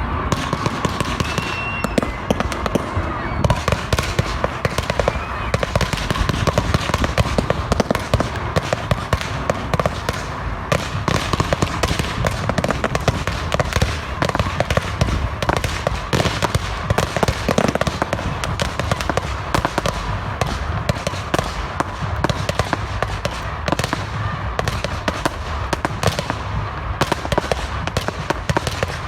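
Fireworks display going off: a rapid, unbroken string of bangs and crackles from many devices fired close together.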